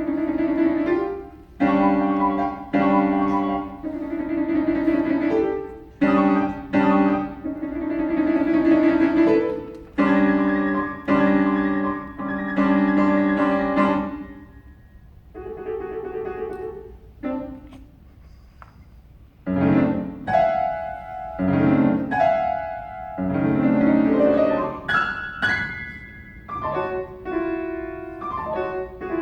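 Solo piano playing a slow piece in chords and held notes, softer for a few seconds about halfway through, then moving into the lower register for the last part.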